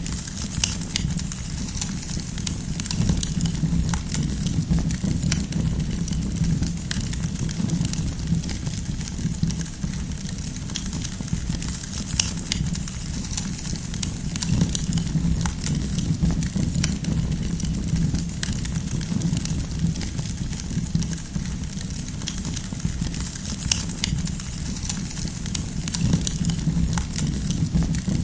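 Wood campfire burning steadily, with a constant low rumble of the flames and frequent sharp crackles and pops from the burning firewood.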